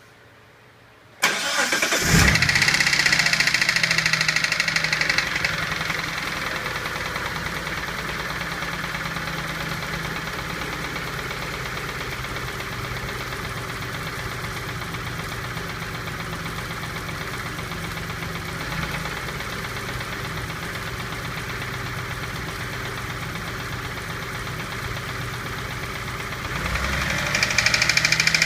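1991 Dodge Stealth's V6 engine starting about a second in, running at a fast idle for a few seconds, then settling to a steady idle with a knock from inside the engine. Near the end the engine speed rises again.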